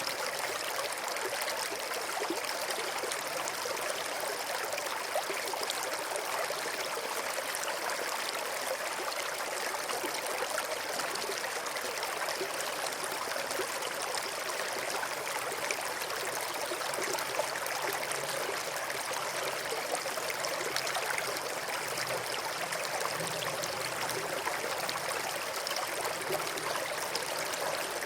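River water flowing over and between rocks, a steady rushing and trickling with no change in level.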